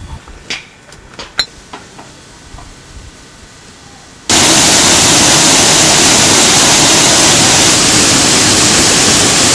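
A few faint clicks, then about four seconds in a loud, steady rushing hiss starts abruptly.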